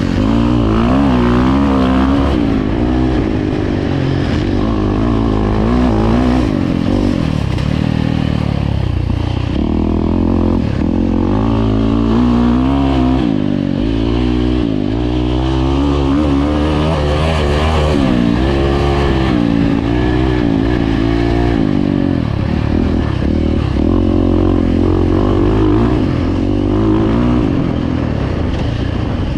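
Dirt bike engines revving, their pitch rising and falling over and over.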